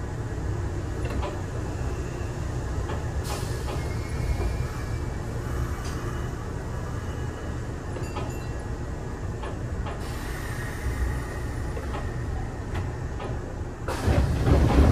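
Kintetsu 8000 series electric train standing at a station with a steady low hum and a few small clicks. Near the end a louder rushing noise starts suddenly.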